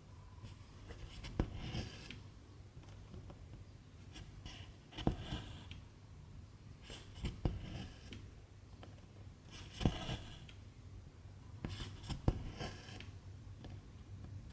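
Hand cross-stitching: a needle ticks through 11-count fabric and silk thread rasps as it is drawn through, five times at a steady, unhurried pace.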